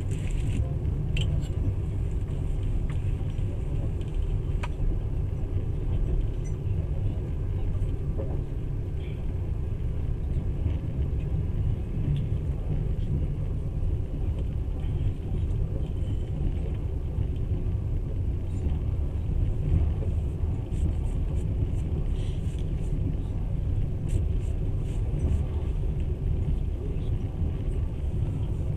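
Steady low rumble of a moving passenger train, heard from inside the carriage at the window, with a few faint clicks and rattles scattered through it.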